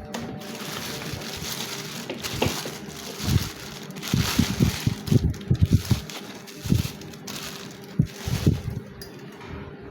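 Packaging being handled, rustling and crinkling, with many small knocks and bumps, densest about halfway through.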